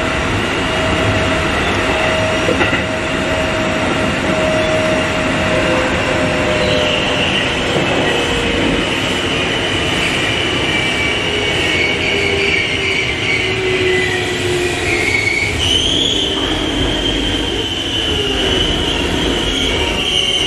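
Keikyu 800 series electric train heard from inside the passenger car, running and slowing into a station: a steady rumble with a whine that falls slowly in pitch, then a high squeal that sets in about three-quarters of the way through as the train brakes.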